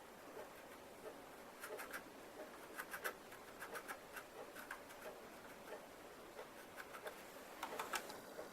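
Putty being spread and rubbed onto a plastic model kit part with a small tool: faint, irregular light scratches and clicks, with a denser cluster near the end.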